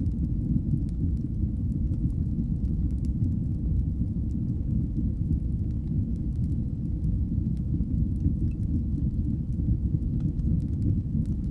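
Fireplace fire burning with a steady low rumble, with faint scattered crackles and pops on top.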